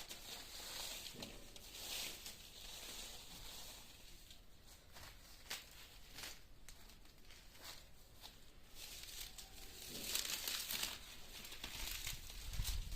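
Dry grass rustling and crackling as it is handled and laid down as mulch, a run of short crisp crinkles that grows busier near the end.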